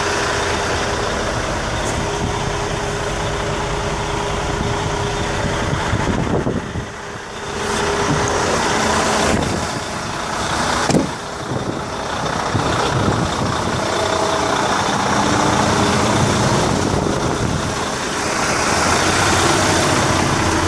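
Detroit DD13 diesel engine of a Freightliner 114SD roll-off truck idling steadily. The sound drops away briefly about six to seven seconds in and again near eleven seconds.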